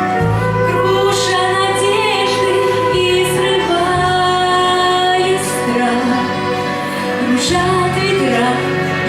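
Female vocalist singing a gentle pop ballad over instrumental backing, the bass shifting to a new note every second or two.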